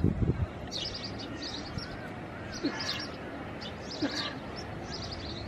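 Small birds chirping in short, repeated high bursts over a steady outdoor background, with a brief low rumble at the start.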